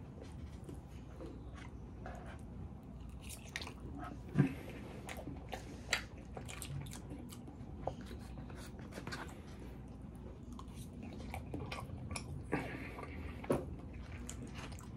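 A person chewing food, with sharp clicks and scrapes of a plastic fork and knife against a foam takeout container now and then; the loudest click comes about four and a half seconds in.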